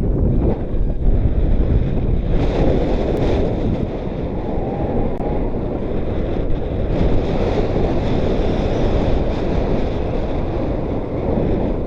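Strong wind buffeting the microphone: a loud, steady rumbling rush of wind noise.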